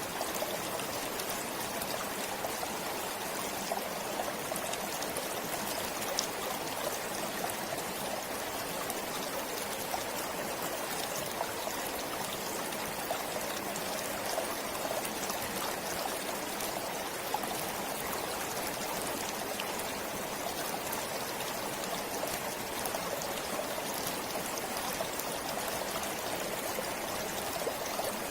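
Forest stream flowing steadily, its water trickling over stones with a constant rush and small splashes.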